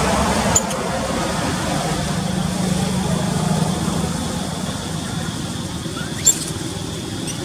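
A motor vehicle's engine idling steadily as a low hum, with two short sharp clicks, one about half a second in and one near the end.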